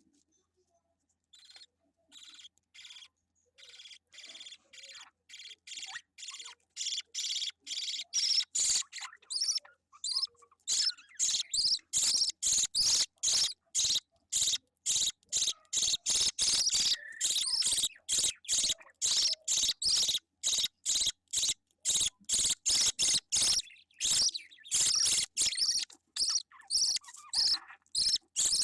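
Budgerigar chick giving rapid, repeated high chirping calls, about two to three a second. The calls start faint and grow much louder over the first ten seconds, then carry on steadily.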